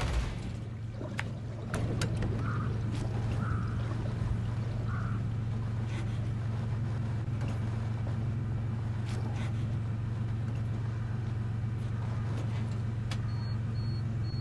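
Truck engine idling steadily, a low even hum that gets louder about two seconds in, with scattered sharp clicks and taps over it.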